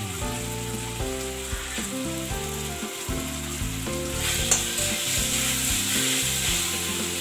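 Sliced onions and whole spices sizzling as they fry in oil in a metal kadai, with a spatula stirring and knocking against the pan. The sizzle gets louder about four seconds in as the onions are turned over.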